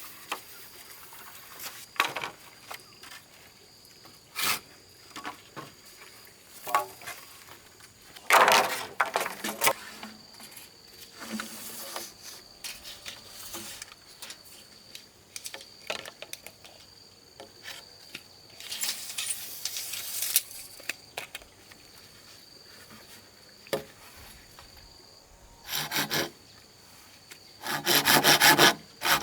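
Bamboo being cut and worked by hand: intermittent bursts of sawing and rubbing with scattered knocks, then a run of quick, even saw strokes near the end.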